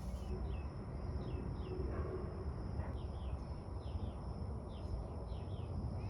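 A bird chirping repeatedly in short, downward-sliding notes, roughly one or two a second, over a steady low background rumble.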